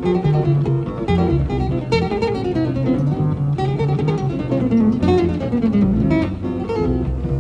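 Jazz played on acoustic guitars: steady strummed chords underneath a single-note melodic line that runs downward partway through. Live concert recording played back from cassette tape.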